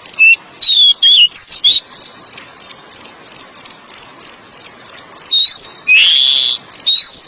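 Oriental magpie-robin (kacer) singing short bursts of whistled, sliding notes, one near the start and another in the second half. Under the song, a high chirp repeats steadily about three times a second.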